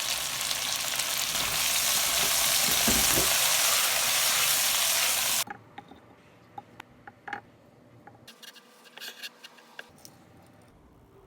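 Chicken gizzards and garlic sizzling as they fry in a pan, with a few low knocks around the third second. About halfway through the sizzle cuts off abruptly, leaving only faint scattered clicks and taps.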